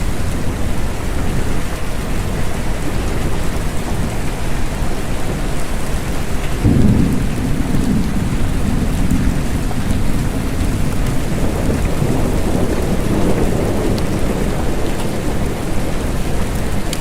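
Steady rain, with a low rumble of thunder that breaks suddenly about six and a half seconds in and rolls on in swells for several seconds.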